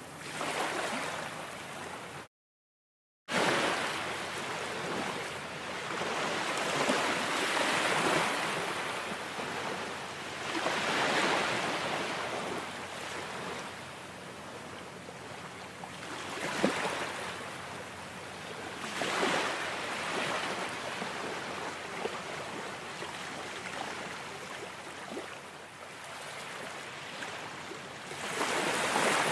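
Ocean waves washing in, the surf swelling and easing every few seconds. The sound cuts out completely for about a second, about two seconds in.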